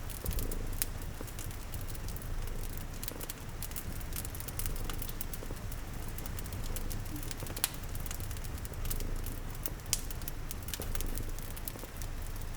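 Layered ambience of a cat purring in a low, steady rumble, a wood fire crackling with scattered sharp pops, and rain pattering.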